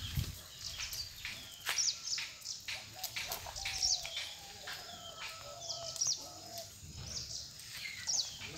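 Birds chirping: short, high, falling chirps again and again, with a longer, lower wavering call in the middle.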